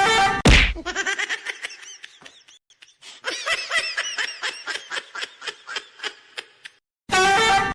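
Laughter in long runs of quick, rapid bursts. A loud sudden sound about half a second in, and again near the end, breaks it up.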